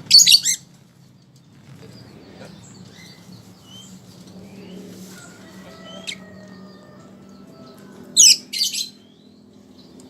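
Lovebird giving two short bursts of shrill, rapid calls, one right at the start and another about eight seconds in, with faint chirps between them.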